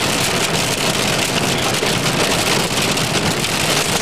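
Steady rain pattering on a car, heard from inside the cabin, with the vehicle's running noise underneath.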